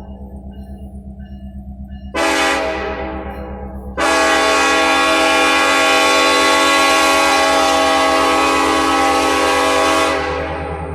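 Diesel freight locomotive's air horn: a short blast about two seconds in, then a long blast of about six seconds starting four seconds in, over the steady low pulsing rumble of the locomotive's engine.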